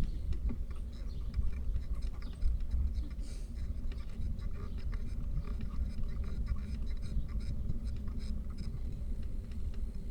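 Bicycle riding recorded from the bike: a steady low rumble of wind and road noise on the microphone, with many small irregular clicks and ticks from the tyres and bike over the surface.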